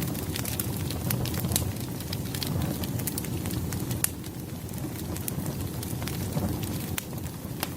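Firewood burning: a steady low rumble of flames with irregular sharp crackles and pops from the logs, one louder pop about four seconds in.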